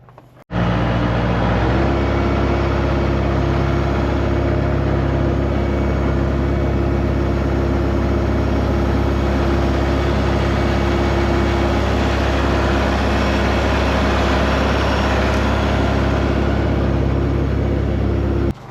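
Tractor engine running steadily, loud and even, with a shift in its note about two seconds in. It cuts in suddenly and cuts off suddenly near the end.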